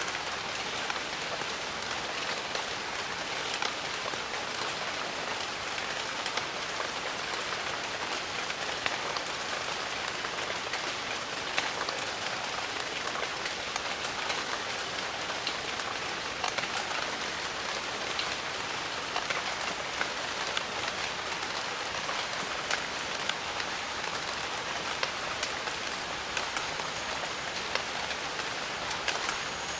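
Steady rain falling in a jungle, an even hiss with many separate drops striking close by.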